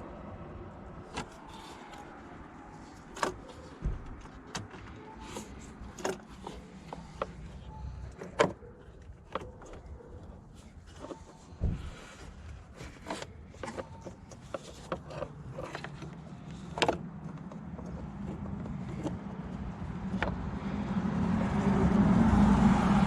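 Irregular plastic clicks and knocks of hands working in a car's headlight housing, handling the LED bulbs and their connectors. A low rumble swells near the end.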